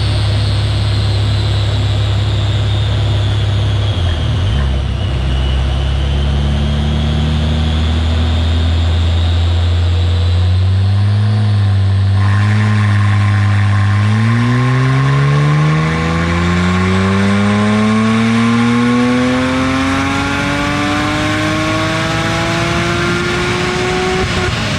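Car engine on a chassis dynamometer, running at low, fairly steady revs, then making a full-throttle pull: the revs climb steadily for about ten seconds before the throttle is lifted near the end and the pitch drops sharply.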